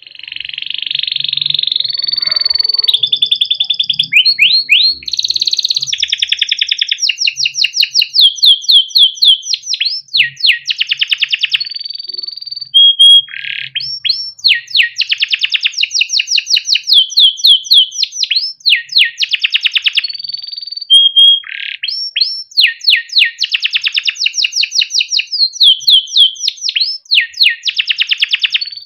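Yellow domestic canary singing a long continuous song: fast rolling trills of rapidly repeated notes, changing every second or two, broken by short steady whistled notes.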